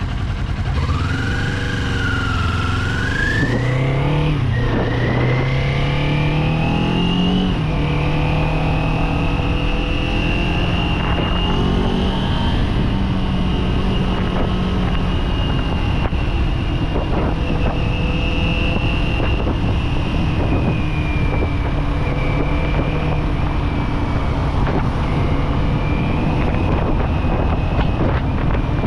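Kawasaki Z400 parallel-twin motorcycle engine accelerating with rising pitch, dropping once about four seconds in as it shifts up. It climbs again, then holds a steady cruising pitch with small rises and falls.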